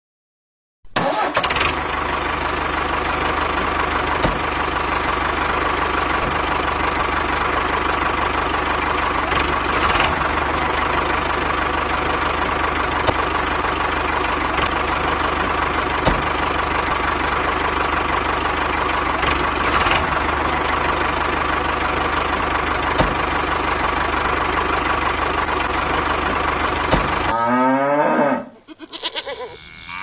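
Tractor engine running steadily, then cutting out near the end, followed by a cow mooing.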